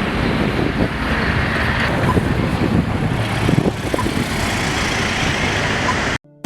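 City street traffic noise, a steady rumble of passing vehicles, with a faint short beep about every two seconds. It cuts off abruptly near the end.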